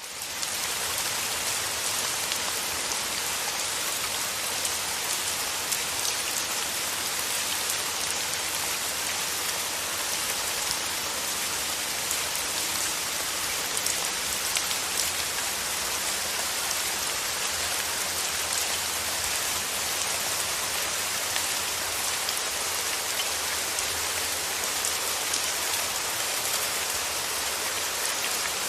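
Steady rain falling, a dense even hiss with many small drop taps.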